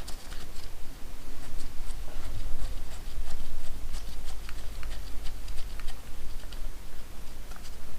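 Scattered light clicks and taps of hand tools and small bolts being handled while working on a motorcycle, over a steady low rumble.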